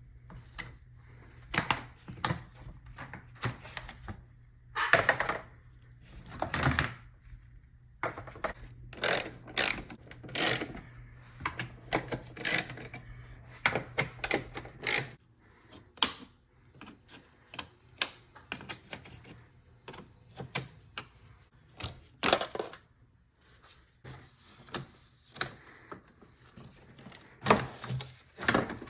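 Irregular clicks, taps and knocks of hand tools and parts being handled during engine-bay work, with a couple of longer scraping rustles about five and seven seconds in. A low steady hum underneath stops about halfway through.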